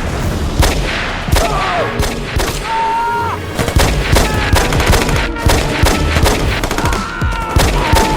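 Battle sound effects: rapid gunfire with bursts of machine-gun fire, over background music.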